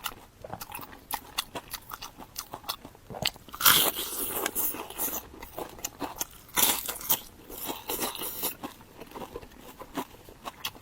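Close-up eating sounds: crisp food being bitten and chewed with rapid crunches and mouth clicks, with two louder spells of crunching about three and a half and six and a half seconds in.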